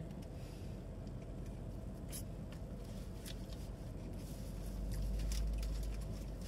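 Chewing with soft rustles and small clicks of food wrapping inside a car cabin, over a low steady hum that swells briefly about five seconds in.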